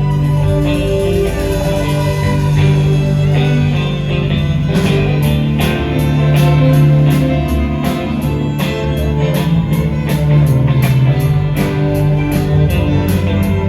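Live band playing the instrumental intro of a rock song: electric guitar over a steady held bass note, with a drum beat of regular sharp cymbal ticks joining about five seconds in.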